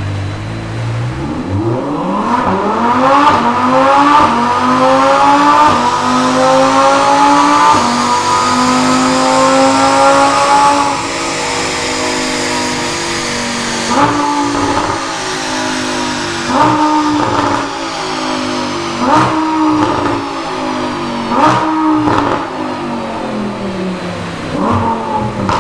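2020 Audi R8 V10 Plus's 5.2-litre V10 through a Quicksilver stainless sport exhaust, accelerating hard with revs climbing for about ten seconds. The car then slows through five downshifts, each a sharp blip of the revs that then sinks away.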